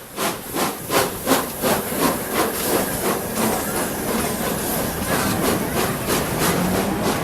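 Train running past with a quick, even beat of sharp strokes, about three a second, over steady rail noise.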